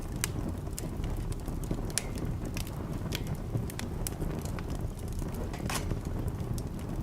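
Wood fire in a fireplace crackling, with sharp pops and snaps at irregular moments over a steady low rumble.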